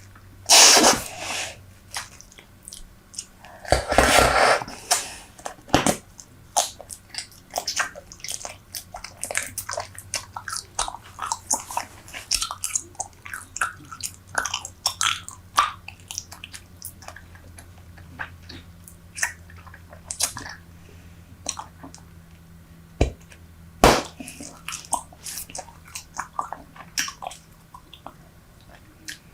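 Close-miked chewing of Super Bubble bubble gum: a rapid run of wet, sticky clicks and smacks. Two louder, longer noisy bursts come in the first five seconds, and one sharp snap about 24 seconds in.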